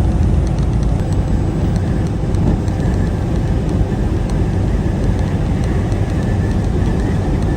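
Steady low rumble of a heavy vehicle running, engine and road noise holding even with no change in pitch.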